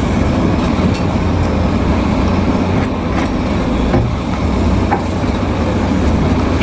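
Heavy-machinery engine running steadily with a loud low rumble, the sound of an excavator at work.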